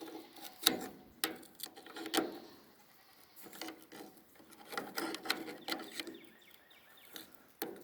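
A knife working at tangled baler twine on the knotter mechanism: scattered metallic clicks and knocks, the sharpest two near the start, with a few short pitched sounds in between.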